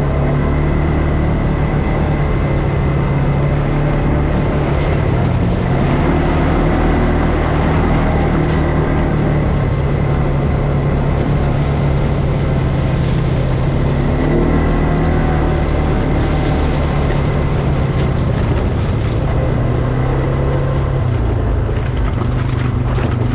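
ATV engine running under way, its pitch rising and falling several times as the throttle changes.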